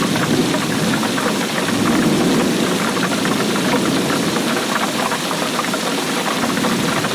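Steady rainfall, a dense patter of drops.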